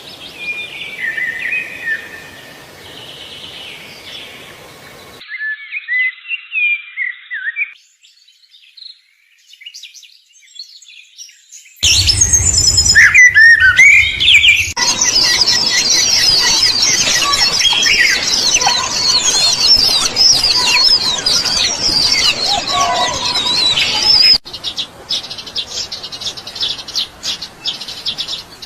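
Songbirds chirping and singing in a series of spliced clips that change abruptly several times. The loudest stretch, from a little before halfway until past the three-quarter mark, is a dense chorus of many high, quick chirps overlapping at once.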